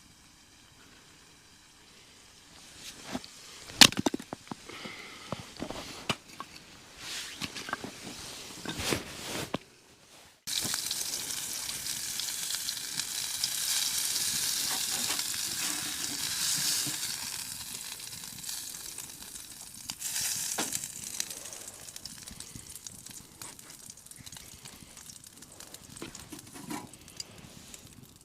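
A few clicks and knocks of utensils, then from about ten seconds in a steady sizzle of food frying in a titanium skillet, gradually dying down toward the end.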